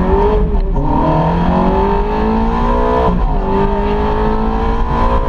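Sports car engine accelerating hard through the gears, heard from inside the open-topped cabin: the pitch climbs, drops at an upshift about half a second in, climbs again, and drops at a second upshift about three seconds in.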